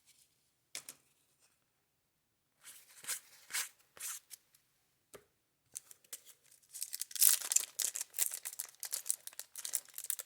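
A few brief rustles of baseball cards being handled. Then, from about seven seconds in, a dense run of tearing and crinkling as a card pack's wrapper is torn open.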